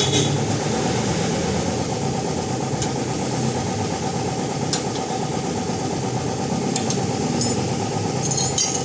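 A steady mechanical drone of a running motor or engine, with a few brief light metallic clicks over it, the last cluster near the end.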